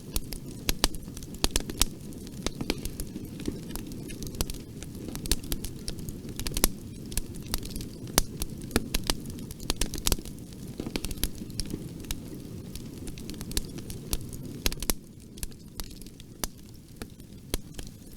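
Bonfire burning, wood crackling and popping in irregular sharp snaps over a steady low rumble of the flames.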